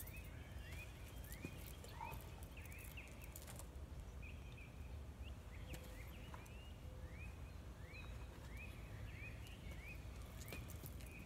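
Faint bird chirping: short rising chirps repeated about twice a second, with a brief pause partway through, over a low steady outdoor rumble.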